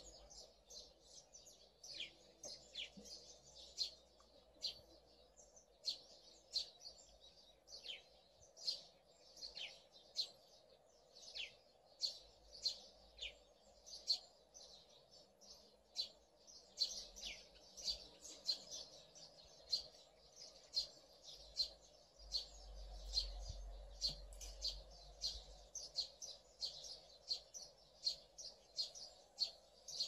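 Garden birds chirping: a steady run of short, high chirps, about one to two a second, each dropping quickly in pitch.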